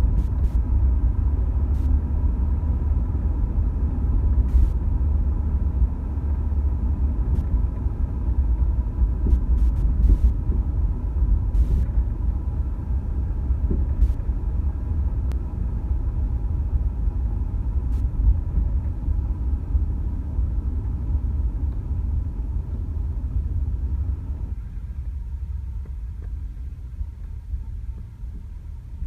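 Steady low rumble of a car driving, with a few faint clicks; the higher part of the noise drops away about 25 seconds in and the rumble eases off toward the end.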